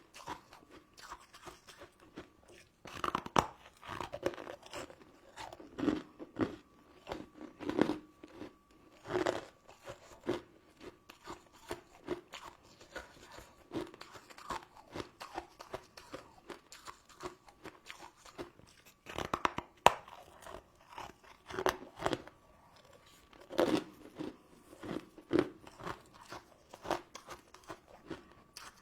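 Close-miked crunching and chewing of sugar-crusted crystal candy and jelly, in irregular bites with louder crunches every few seconds. A faint steady hum sits underneath.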